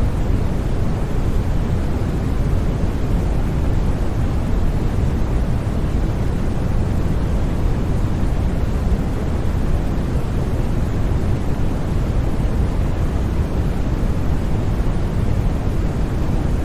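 Continuous white noise for sleep: a steady, even rushing hiss, heaviest in the low end, with no changes or breaks.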